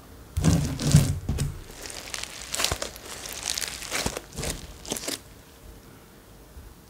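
Slime being squeezed and stretched by hand, giving a run of irregular crackles and pops. It is loudest near the start and stops about five seconds in.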